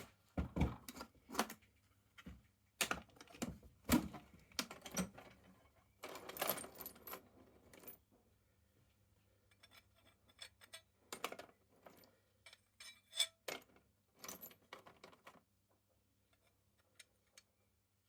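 Small metal tool parts clinking and knocking as they are handled and set down on a workbench: a run of sharp knocks, a short rattling scrape about six seconds in, then lighter ticks that die away near the end.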